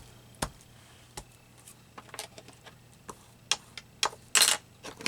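Scattered light clicks and taps of paper cut-outs and craft tools being handled on a tabletop, with a short, louder paper rustle about four and a half seconds in.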